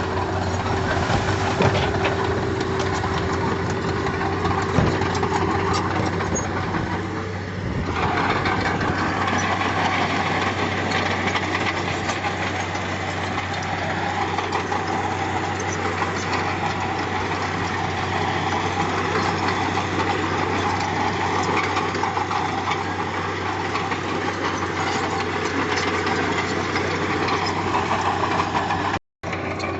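Diesel engine of heavy earthmoving machinery running steadily. The sound changes about eight seconds in and cuts out for a moment near the end.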